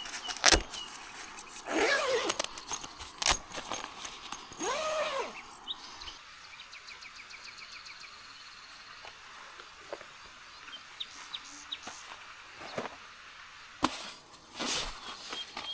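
Outdoor ambience with bird calls, including a rapid high trill partway through, amid scattered knocks and rustles.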